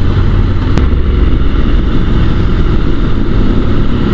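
Honda NC750 DCT's parallel-twin engine running steadily under way, mixed with wind rush on the onboard microphone. A single sharp click just under a second in.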